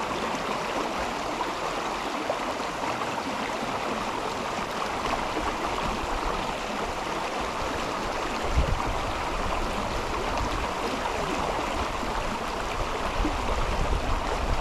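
A river flowing with a steady rushing of water. From a little past halfway, low gusty rumbling from wind buffeting the microphone joins in.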